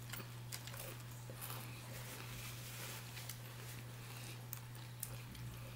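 Faint sounds of eating fried chicken: quiet chewing and a few light clicks, over a steady low hum.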